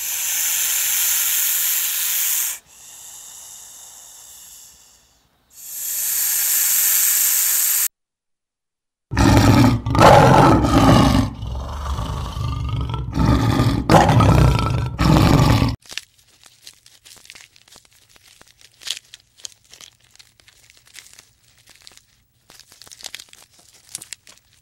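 A string of separate animal sounds. Two bursts of hissing noise come first. Then, from about 9 s, a large animal gives a deep, loud growling roar for several seconds, followed by faint scattered clicks.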